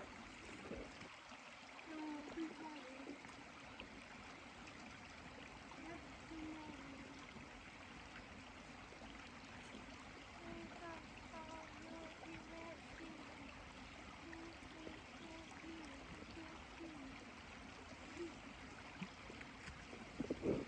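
Faint, steady rush of a small woodland creek flowing, with faint snatches of voices now and then.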